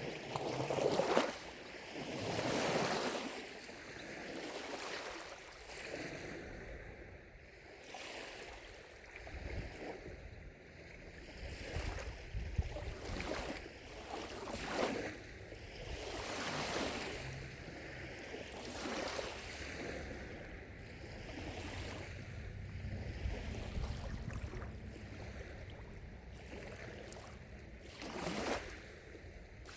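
Small lake waves lapping at the shore, a soft wash that swells and falls back every second or two. A low wind rumble on the microphone comes and goes.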